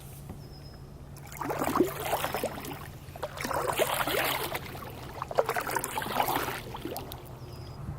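Kayak paddle strokes in the water: three separate splashing, dripping strokes, each lasting about a second and a half, over a steady low hum.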